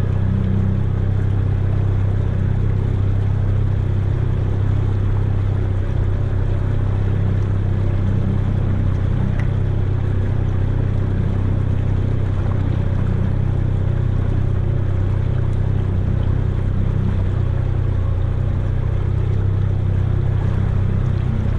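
Outboard motor on an inflatable boat running at a steady cruising speed, with a constant low drone and the rush of water and wind over it.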